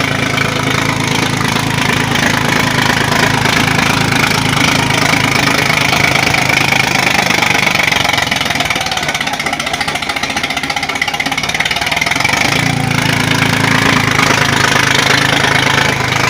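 Sonalika DI-55 tractor's diesel engine running steadily; its low drone fades for a few seconds around the middle, then returns.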